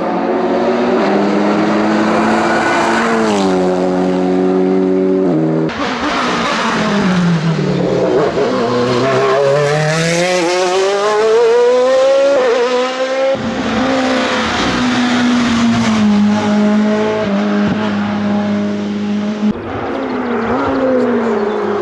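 Racing car engines at high revs, accelerating and falling in pitch through gear changes. The sound changes abruptly to a different car about 6, 13 and 19 seconds in.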